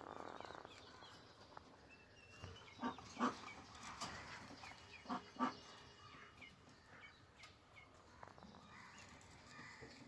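Budgerigars chattering: a steady stream of quick, high little chirps and warbles. Two pairs of short, louder sounds come about three seconds in and again about five seconds in.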